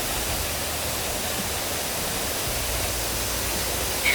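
Steady rushing noise of a waterfall pouring into its pool, even and unbroken, with a brief high vocal sound right at the end.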